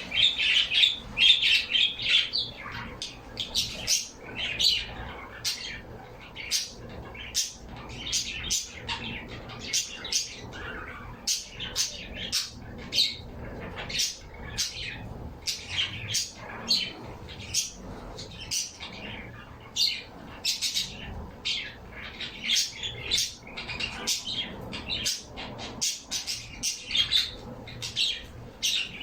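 Pet birds chirping and squawking, a rapid run of short, high calls with hardly a pause, loudest in the first couple of seconds.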